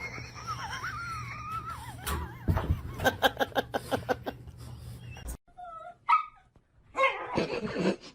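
A dog whining in a wavering high pitch, then a quick run of short yips, about five a second; after an abrupt cut, a few short whimpers and a louder yelping burst near the end.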